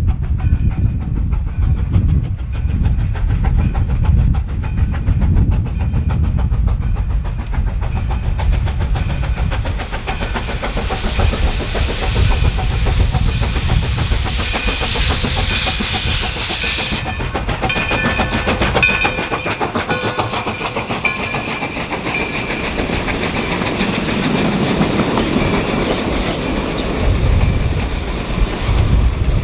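Black River & Western steam locomotive No. 60 and its train rolling by, a steady rumble with wheels clacking over rail joints. A loud hiss rises from about eight seconds in and cuts off around seventeen seconds, with thin high squeal tones through the middle.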